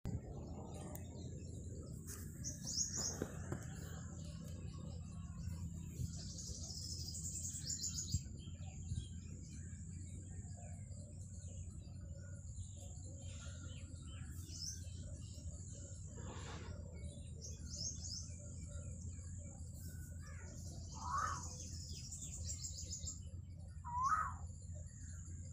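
Small birds chirping in short, high bursts every few seconds over steady low background noise and a faint constant high whine. Two louder, short rising sounds come near the end.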